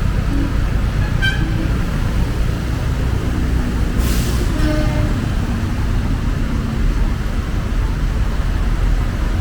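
Street traffic noise: a steady low rumble of passing vehicles, with a brief hiss about four seconds in and faint voices.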